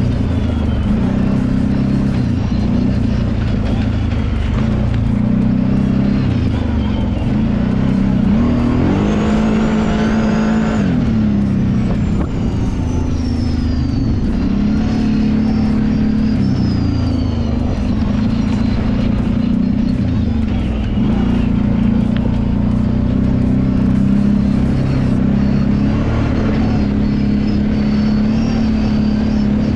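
Kawasaki Brute Force 750 ATV's V-twin engine running under a rider's throttle on a trail, its pitch rising and falling as the revs change, with a sharper rev-up about a third of the way in.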